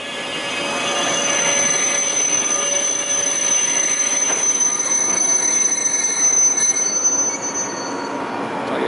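Belgian SNCB passenger train running along an underground station platform, with a steady high metal-on-metal squeal over the rumble of the train. The squeal fades out near the end.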